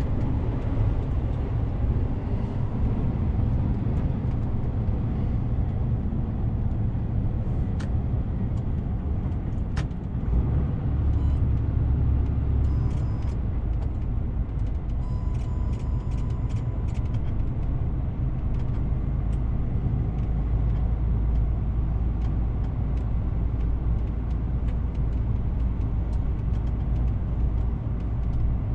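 DAF CF 450 truck driving along, its engine and road noise making a steady low rumble. Roughly halfway through, a short run of light clicks and faint short tones sits over it.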